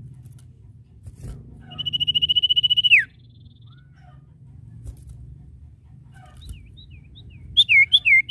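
A sirtu bird singing: one long trilled whistle lasting over a second that drops sharply in pitch at its end, then near the end a quick run of short down-slurred whistles.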